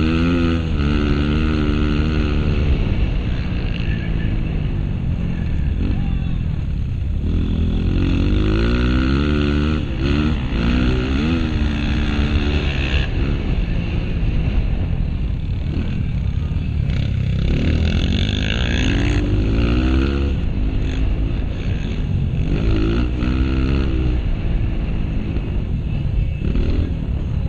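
Honda CRF230 single-cylinder four-stroke dirt bike engine revving up and down as the rider accelerates and backs off the throttle, the pitch climbing sharply about every few seconds and dropping back between.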